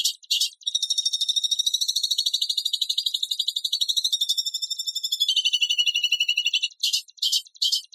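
High-pitched recorded animal call used as songbird tutor material: short harsh chirps at about three a second, then a fast, dense buzzing trill lasting about six seconds that drops slightly in pitch near its end, then the chirps again.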